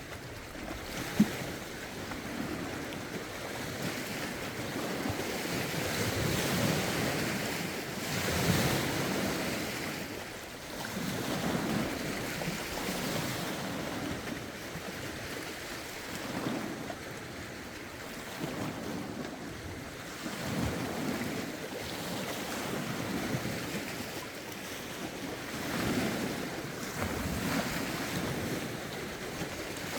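Lake waves washing in, swelling and easing every few seconds, with rough wind buffeting the phone's microphone. A single sharp tap about a second in.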